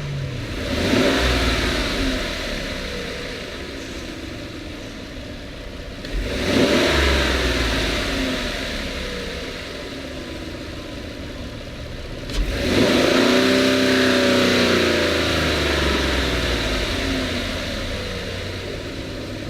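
Chevrolet 1500 pickup's engine idling and revved three times, each rev climbing and then easing back down to idle; the last rev is held the longest.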